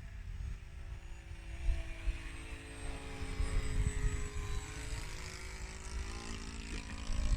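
Faint, steady whine of a model's 50 mm electric ducted fan (4000 kV motor on a 3S battery) in flight, its pitch shifting slightly, over low wind rumble on the microphone.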